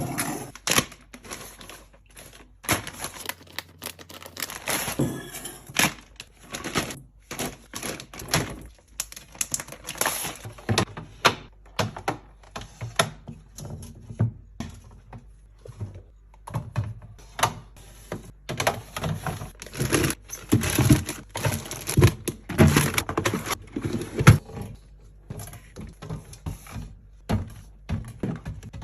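Rapid, irregular clicks, taps and knocks of small hard items being handled and set down, with a little crinkling of packaging: restocking and organizing sounds.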